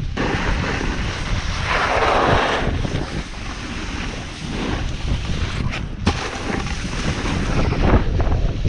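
Wind rushing over the microphone while snowboarding downhill, with the board's edge hissing and scraping across the snow, loudest about two seconds in.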